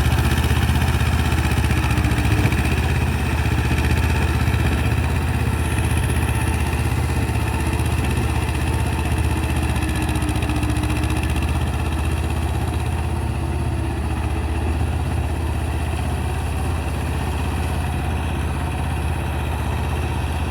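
Mahindra Jivo 245 DI tractor's two-cylinder diesel engine running steadily, a little quieter after about three seconds.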